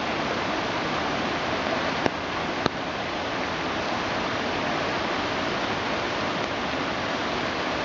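Steady rush of a flooded creek, its swollen water running fast over and beside the path. Two brief sharp clicks come about two seconds in, half a second apart.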